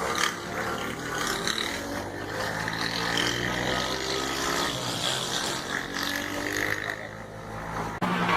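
Motorcycle engine running, its pitch climbing steadily as it accelerates.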